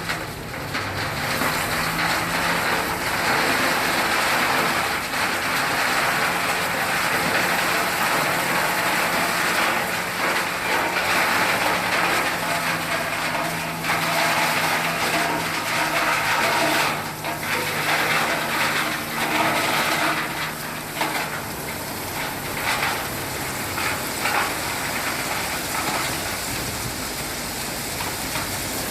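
Heavy dump truck running, with a steady low engine hum under a loud continuous rushing hiss.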